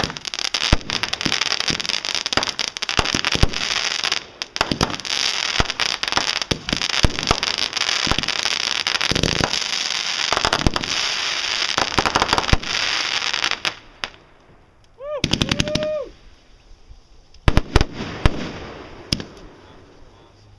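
Aerial fireworks: dense crackling and popping crowded with sharp reports for about fourteen seconds. This is followed by a lull, a couple of rising whistles, and a few loud single bangs near the end.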